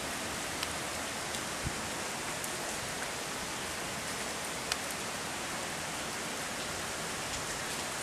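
Heavy rain falling steadily, an even hiss, with scattered sharp taps of drops striking close by; the loudest tap comes about halfway through.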